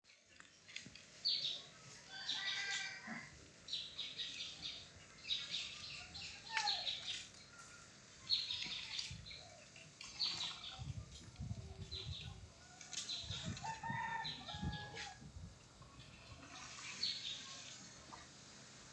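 Outdoor birdsong and bird calls, short high calls repeating every second or so with a few lower pitched calls among them, over a light rustle of leaves in the breeze. Low rumbles come and go in the middle.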